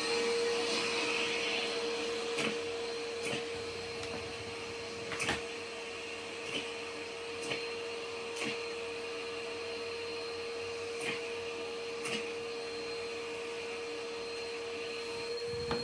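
Hoover vacuum cleaner running with a steady motor whine, sharp crunches and clicks of debris being sucked up about once a second.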